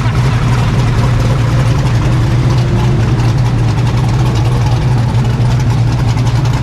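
An engine running at a steady idle, a constant low hum that doesn't change.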